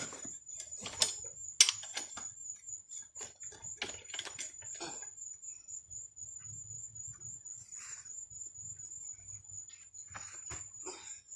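An irregular run of sharp clicks and knocks from hand work with a ratchet strap and tools on a truck tire, two of them louder about a second and a second and a half in. It dies down after about five seconds. A faint steady high whine runs throughout.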